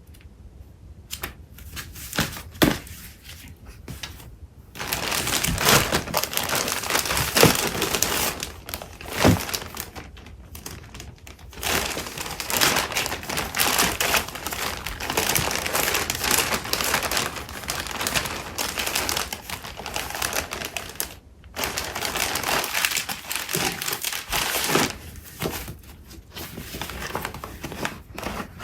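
Craft paper and its packaging being handled and shuffled by hand, crinkling and rustling. It starts with a few light clicks and taps, turns into near-continuous crinkling about five seconds in, and pauses briefly twice.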